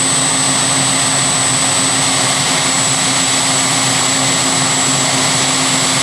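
Pulling vehicle's engine running loud and steady, with a thin high whine held on top throughout.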